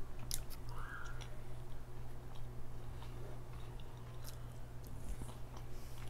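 Close-up mouth sounds of chewing a honey-buttered biscuit, with soft, scattered wet clicks over a steady low hum.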